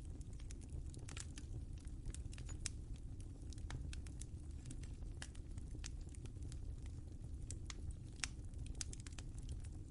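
Wood fire crackling in a fireplace: a steady low rumble under many small, irregular pops and snaps.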